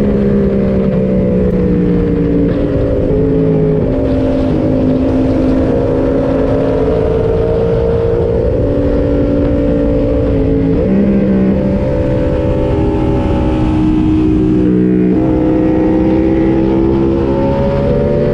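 Yamaha MT-07 689 cc parallel-twin engine running under way, its pitch rising and falling with the throttle and stepping abruptly a few times at gear changes, over steady wind rush.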